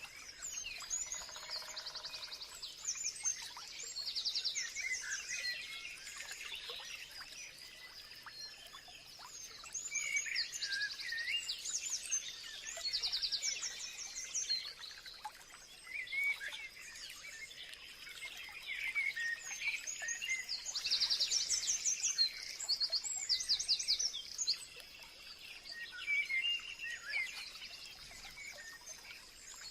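Several wild birds singing and calling together: overlapping chirps and fast repeated trills, busiest about three, eleven and twenty-one seconds in, over a faint steady high-pitched tone.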